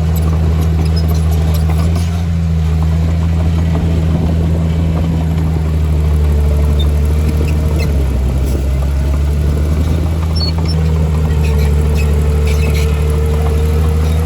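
Heavy diesel engine of earthmoving machinery running steadily under low, even load, with a faint whine that comes in about halfway and again near the end.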